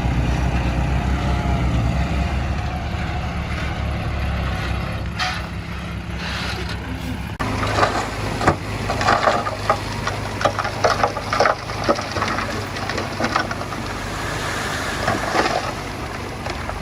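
An earthmoving machine's engine running steadily. After about seven seconds the sound changes abruptly, and a quick series of sharp clattering knocks sits over a lower engine hum.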